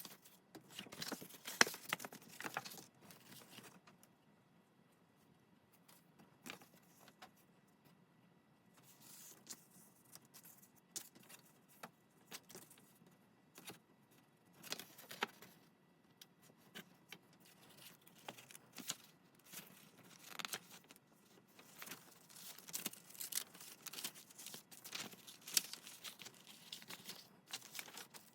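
Paper and stationery being handled at a worktable: scattered rustles, light taps and small clicks, with a quieter lull from about four to nine seconds in.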